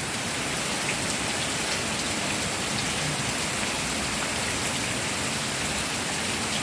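Steady rain falling: an even, continuous hiss with occasional single drop taps standing out.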